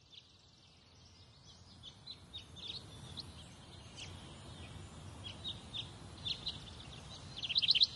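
Birds chirping in short, high calls over a low, steady background rumble, the calls growing busier after the first second or so; a rapid run of chirps comes near the end.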